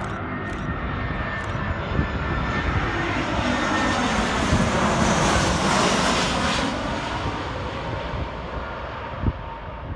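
An airliner on final approach passes close by, its engine noise swelling to a peak about halfway through and then fading as it moves away.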